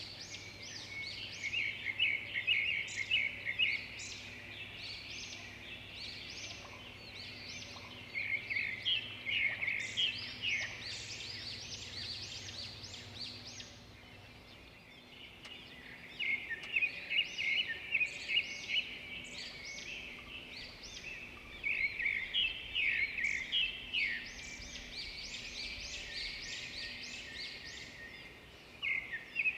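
Songbirds singing: phrases of rapid, high chirping notes in five bursts of a few seconds each, with quieter gaps between, over a faint steady outdoor background.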